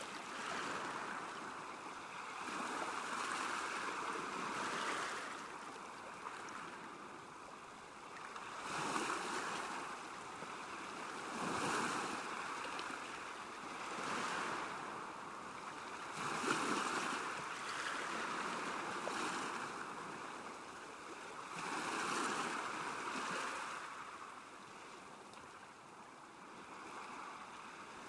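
Small waves lapping at a lake's edge, the water noise swelling and falling away every two to three seconds.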